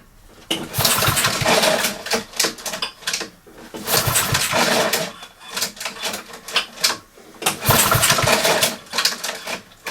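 Honda Izy mower engine pulled over three times on its recoil starter, each pull turning the engine over for a second or two. With the crankcase breather pipe refitted, the popping that came from the open breather port is gone.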